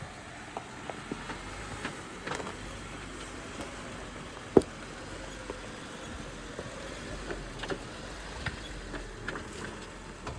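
Jeep crawling slowly over a rocky trail: a low, steady engine hum under scattered small clicks and knocks, with one sharp, loud knock about four and a half seconds in.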